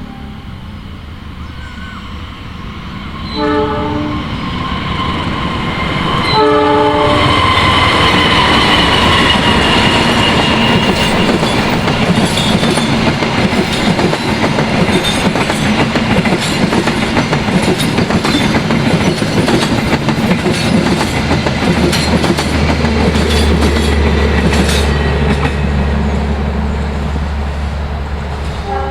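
A diesel-electric locomotive sounds two short horn blasts, then the train passes close by. A whine falls in pitch as the locomotive goes past, followed by a long run of wheels clacking over the rail joints as the carriages roll through, with a low steady hum near the end.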